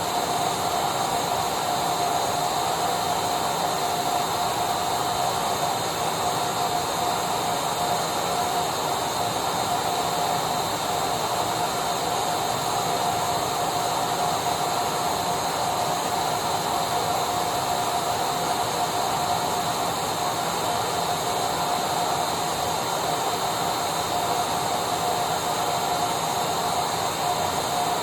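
Electric vacuum cleaner running steadily: an even rushing noise with a constant whine in it, with no change in pitch or level.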